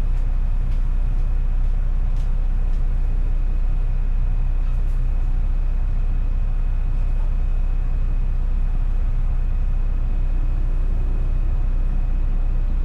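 Twin diesel engines of a 70-foot Riva motor yacht running steadily at low manoeuvring speed while docking: an even low hum, with a faint steady high tone above it.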